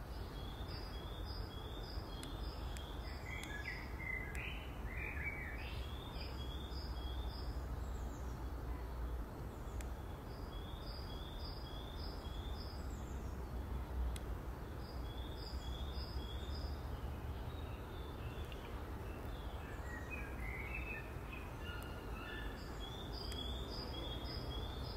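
A songbird singing short phrases of quick high notes, repeated every few seconds, with a few lower chirps in between, over a steady low background rumble.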